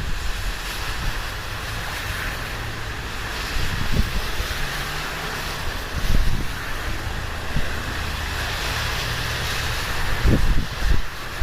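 Typhoon wind gusting and buffeting the microphone over a steady rushing hiss, with low rumbling blasts about 4, 6 and 10 seconds in.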